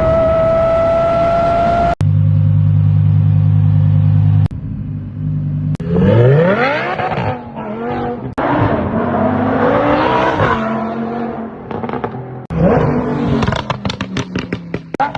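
High-performance car engines revving hard in a string of short clips, pitch sweeping up and down with each blip of the throttle, including a steady low idle for a couple of seconds. Near the end the exhaust pops and crackles rapidly between revs.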